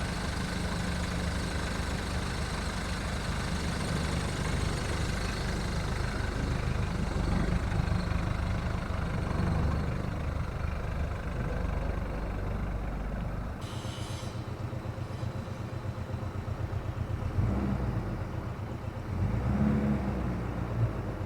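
VW Golf mk1's 1.9 turbo-diesel four-cylinder engine running after a cold start, its note changing about two-thirds of the way through.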